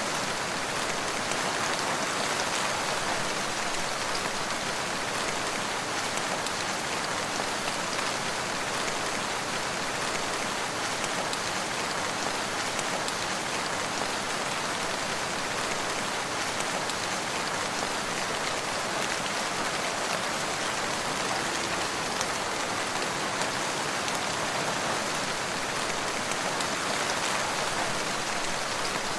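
Steady rain falling on a surface, with fine scattered drop ticks in an even hiss.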